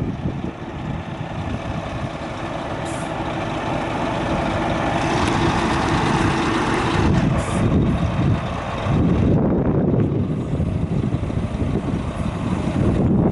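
Scania R 480 diesel truck running steadily, with two short hisses about three seconds in and again about halfway through.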